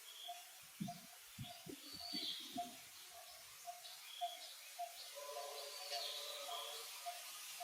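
A bird calling in the background with a short, evenly repeated note about twice a second, mixed with scattered higher chirps. A few soft low thumps come in the first few seconds.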